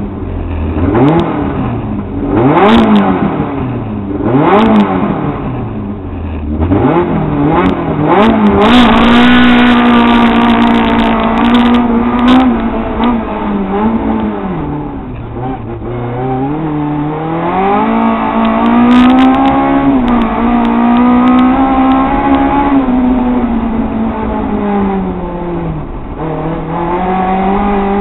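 Hill-climb race car's engine pulling hard up through the gears: quick rising revs broken by short drops at each gearchange, a couple of seconds apart, then held high. About halfway through the revs fall away and the engine pulls up again, easing off once more near the end.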